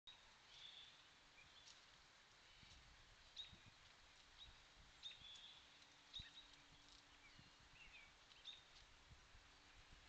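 Faint chirping of small songbirds: a dozen or so short, high chips and chirps scattered through, over a steady hiss.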